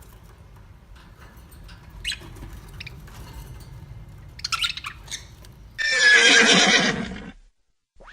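Horse whinnying once, loud and wavering, for about a second and a half near the end, then cut off abruptly. Before it, faint scattered clicks and knocks over a low rumble.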